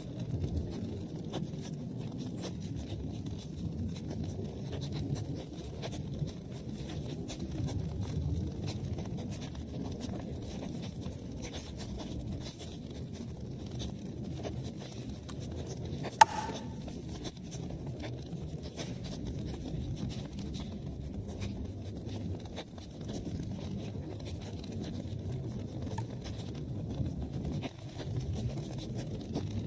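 Wood fire burning in a fireplace: a steady low rumble of flames with frequent small crackles, and one loud sharp pop about sixteen seconds in.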